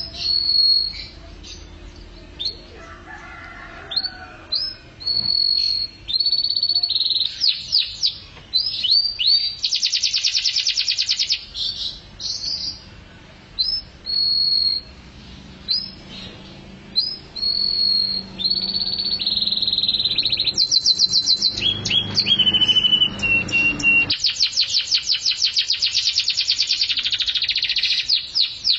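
Domestic canary singing a long, varied song of short high whistled notes and rapid trills, with fast rolling trills about a third of the way in and again near the end.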